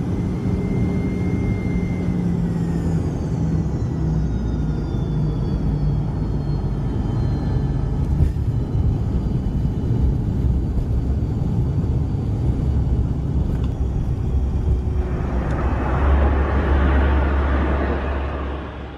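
Jet airliner's engines running with a steady rumble, their whines falling in pitch over the first few seconds as they wind down. A louder rush of noise swells near the end and then fades.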